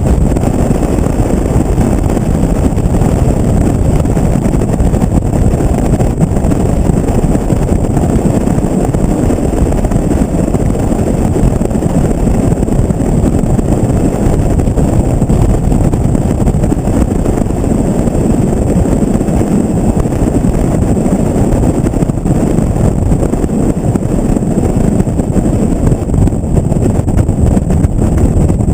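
Steady, loud wind rumble on a GoPro's microphone from riding in an open pickup truck bed at highway speed, mixed with the truck's road noise.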